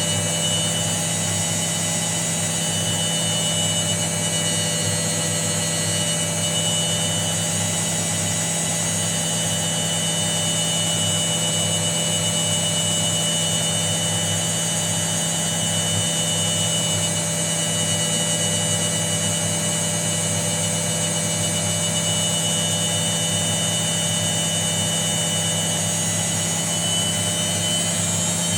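Washing machine (model WGG25402GB) running mid-cycle: a steady motor hum with a constant high whine, unchanging throughout.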